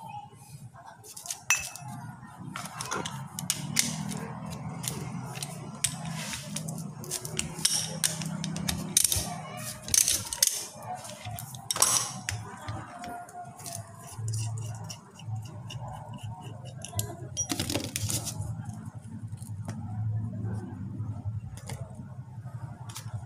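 Hand tools and steel parts of a power steering pump clinking and clicking at irregular intervals while the two 12mm bolts on the pump's reservoir return are taken out, over a low steady hum.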